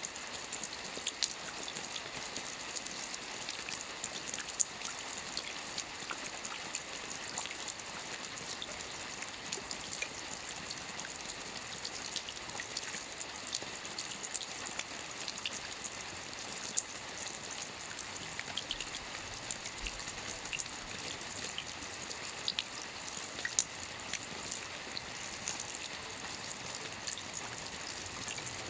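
Steady rain falling, an even hiss dotted with many small individual drop ticks.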